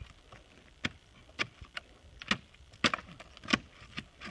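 A boulder tumbling down a rocky volcanic slope: a string of sharp knocks as it strikes the rock, irregular at about two a second, with some hits louder than others.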